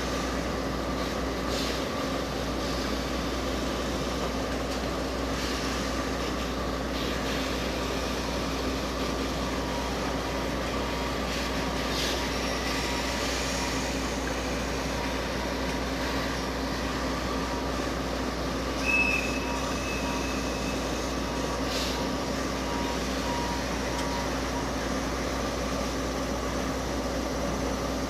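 Limestone freight train at a station, a steady mechanical hum with a few steady tones and occasional faint clicks. About two-thirds of the way through there is a brief high-pitched squeal.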